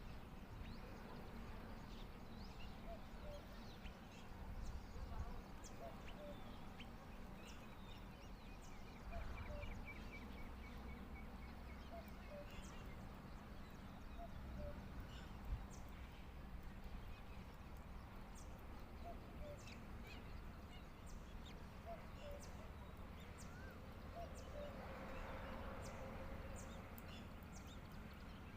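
Faint outdoor ambience with scattered short bird chirps and a brief rapid trill partway through, over low rumbles of wind on the microphone.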